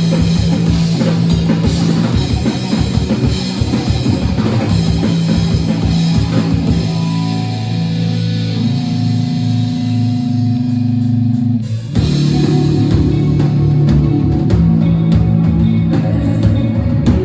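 Rock band playing live, with drum kit and guitar. About seven seconds in, the drums drop out for a break of held notes, and the full band comes back in at about twelve seconds.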